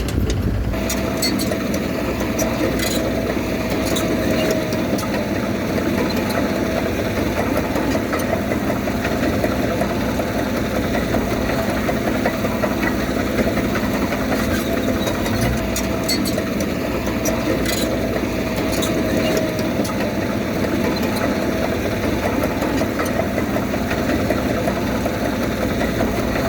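Heavy diesel engine of earthmoving machinery running steadily, with a faint whine rising above it twice.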